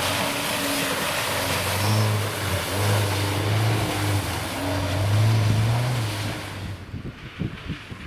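Lada Niva engine revving up and down as the car drives through slush and water, with the splash and hiss of the tyres in the wet. Both fade out about two-thirds of the way through.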